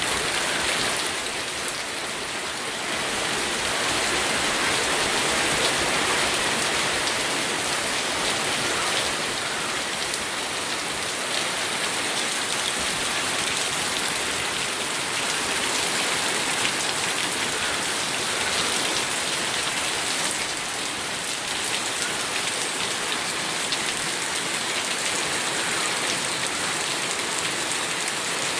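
Steady rain falling and pattering on a surface, an even dense hiss with many small drop ticks.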